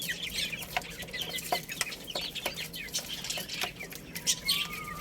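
A group of baby chicks peeping in many short, quick, falling chirps, with scattered sharp clicks and a longer rising call near the end.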